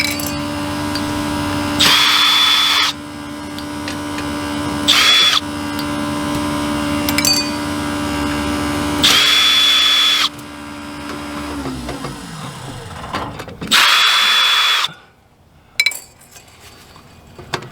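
Power drill driving cover screws in four short bursts, each with a high whine, while the hydronic heater's water circulation pump hums steadily underneath. About twelve seconds in the pump winds down, its hum sliding lower in pitch, and stops; it had been running as the heater's freeze protection, circulating water.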